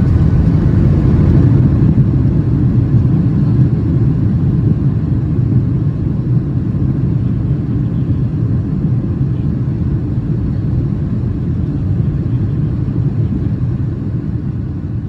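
Steady low rumble of a Boeing 737-700 heard from inside the cabin, slowly easing off in loudness.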